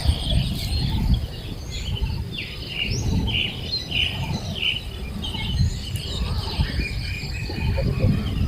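Small birds chirping, many short calls one after another, over a low rumble.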